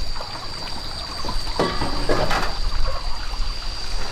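Water trickling and pouring unevenly, louder for a moment about a second and a half in.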